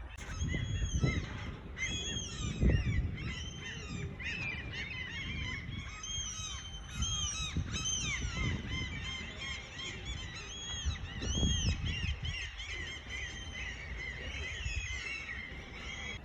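Many birds calling at once, a dense stream of short overlapping chirping calls, with wind buffeting the microphone now and then.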